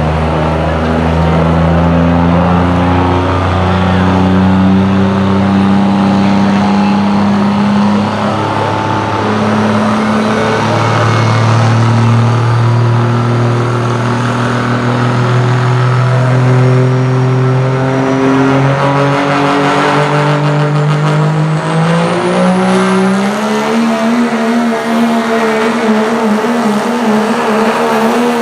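Diesel pickup truck engine running hard under load, its pitch holding steady and then stepping up and down several times before climbing and holding high near the end. A thin high whistle rises in pitch through the second half.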